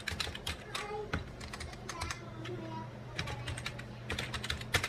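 Computer keyboard being typed on: irregular quick key clicks, some clustered in short runs, over a steady low hum.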